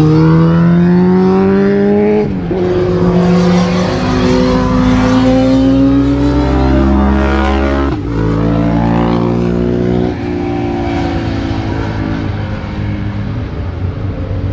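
BMW S1000RR's inline-four engine running hard on track, its pitch climbing under acceleration and dropping sharply three times at gear changes, then running lower and steadier for the last few seconds.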